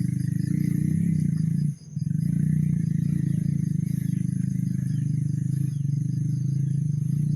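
A motor vehicle engine running steadily under load, dropping away sharply for a moment about two seconds in and then picking up again.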